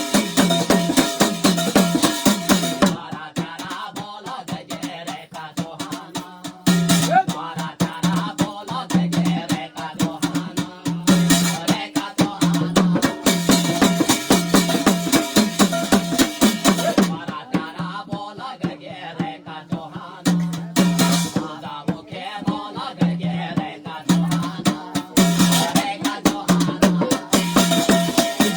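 Garhwali jagar devotional music: fast, steady drumming with bright metallic jingling. The jingling twice drops back for a few seconds, leaving the drums and a voice.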